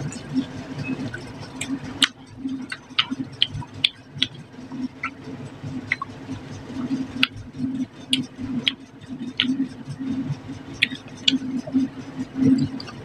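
A person chewing a mouthful of fish and rice, with many irregular sharp, wet mouth clicks and smacks, a few a second.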